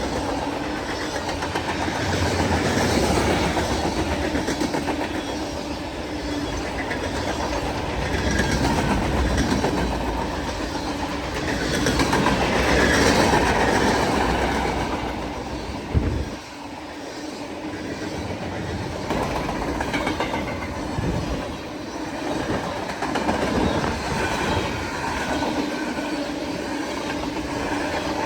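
Freight train cars rolling past, wheels clicking over the rail joints in a steady rumble that swells and fades, with one sharp bang about halfway through.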